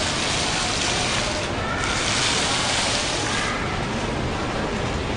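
Water falling and splashing steadily from a valve-controlled water curtain that drops water in patterns to form letters and shapes. Its hiss thins briefly about a second and a half in and again in the second half.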